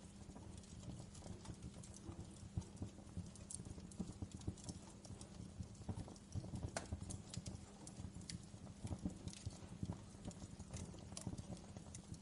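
Wood fire crackling in a fireplace: irregular snaps and pops, a few sharper than the rest, over a low steady rumble of the flames.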